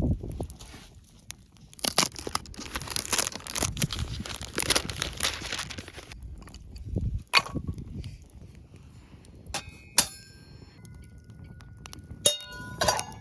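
Camp-cooking handling sounds: rustling and crinkling of packaging, then a few sharp metal clinks that ring briefly, like utensils or cookware knocked together.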